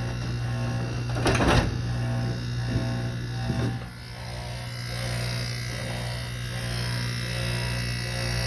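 Air conditioner compressor running with a steady, buzzy electric hum. A brief rushing burst comes about a second and a half in.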